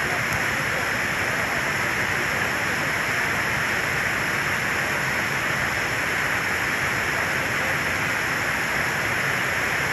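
Steady rush of water from a waterfall, an even hiss that does not change.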